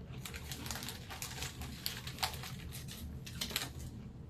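Close-up crunching of Doritos tortilla chips being chewed: a string of irregular crisp cracks, a few of them sharper and louder.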